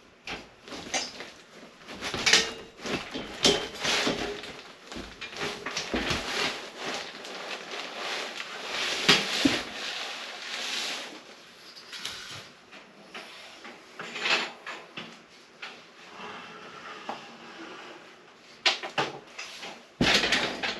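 Irregular knocks, clunks and scrapes of a large roof basket being handled and taken down from its storage spot in the roof trusses.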